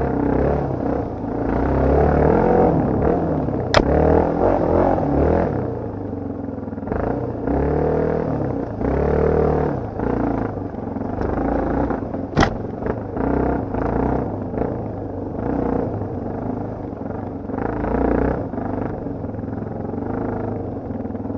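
Motocross bike engine being ridden hard, its pitch repeatedly rising and falling with the throttle. There are two sharp knocks, about four seconds in and again past twelve seconds.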